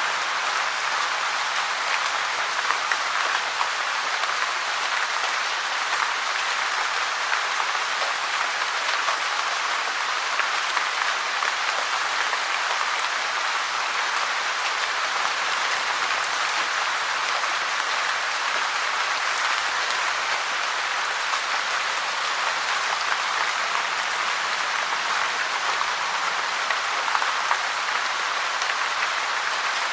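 Steady rain falling: an even hiss of many drops, with occasional sharper single-drop ticks.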